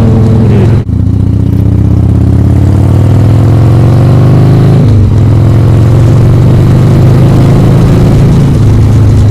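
Harley-Davidson Sportster 1200's air-cooled V-twin pulling hard under way: a brief dip about a second in, then the engine note rises for about four seconds, drops sharply near five seconds as at an upshift, and runs on steadily.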